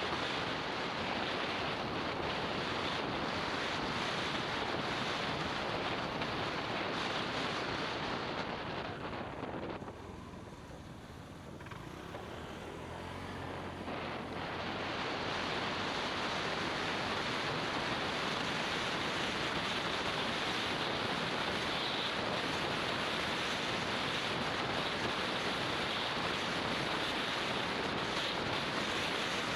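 Wind rushing over the microphone of a camera on a moving motorbike, a steady noise that eases for a few seconds about ten seconds in and then builds back up.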